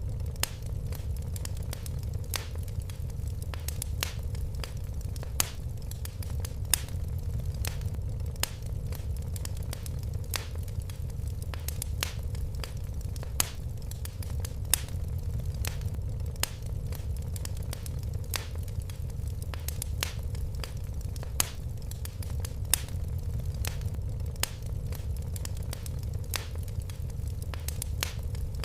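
Wood fire crackling in a fireplace: irregular sharp pops, about one or two a second, over a steady low rumble of flames.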